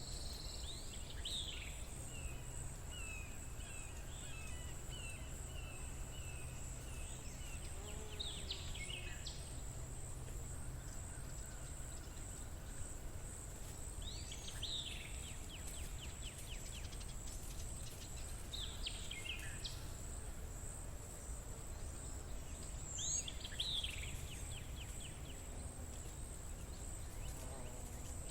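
A songbird repeating a short phrase that falls in pitch and ends in a trill, about every five seconds, with a run of quick repeated notes near the start. Under it runs a steady high-pitched insect drone and a low background rumble.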